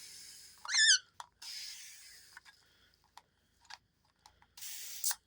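Hand spray bottle misting water in short squirts, with small trigger clicks between them. About a second in, a cockatiel gives one short wavering chirp, the loudest sound.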